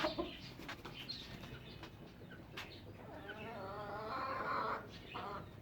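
Domestic chickens clucking, with a hen's drawn-out wavering call lasting nearly two seconds from about three seconds in. A few sharp knocks sound in the first half.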